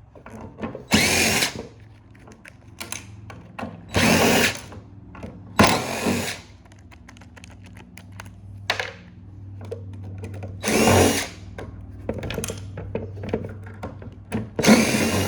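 Power drill/driver run in about five short trigger pulls, each a brief whine that rises in pitch as the motor spins up. Faint clicks come between the pulls.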